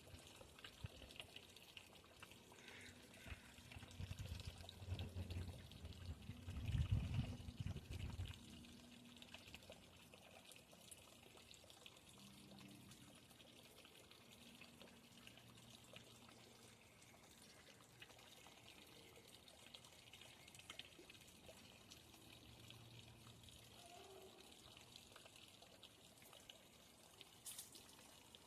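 Faint trickling water, with low rumbles in the first eight seconds.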